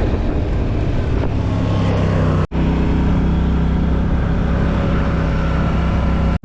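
Four-wheeler (ATV) engine running steadily while riding, with a sudden momentary dropout about two and a half seconds in.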